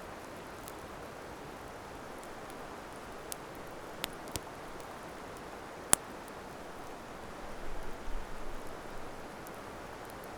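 Wood campfire burning: a few sharp crackling pops, the loudest about six seconds in, over a steady hiss, with a brief low rumble around eight seconds.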